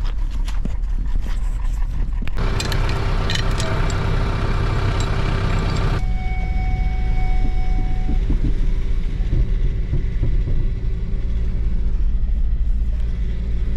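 Vehicle engine running with a steady low rumble. About two seconds in, a steadier, higher hum with many overtones joins it for about four seconds, then stops abruptly.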